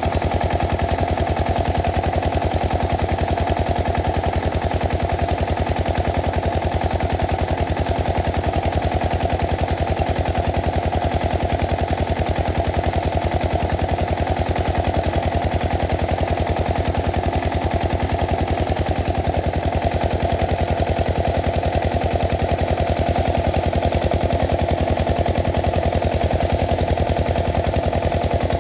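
Single-cylinder 8 hp diesel engine of a water pump set running steadily, its exhaust giving a fast, even beat of thuds.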